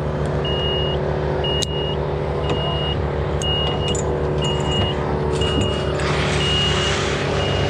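Engine running steadily at a constant speed while a high warning beep sounds about once a second. A hiss comes in near the end.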